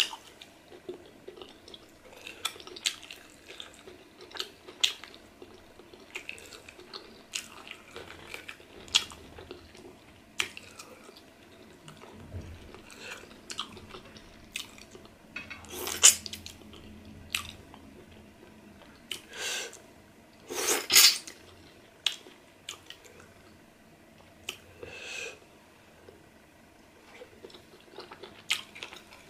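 Close-miked chewing of pork pepper soup eaten by hand: wet mouth clicks and smacks about every second, with a few louder, longer sounds about halfway through.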